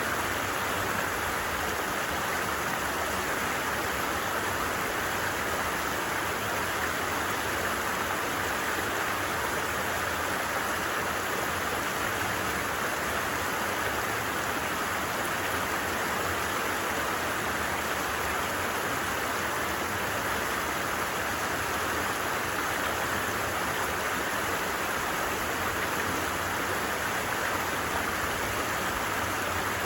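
Steady rush of a flowing stream, an even unbroken water noise with no change in level.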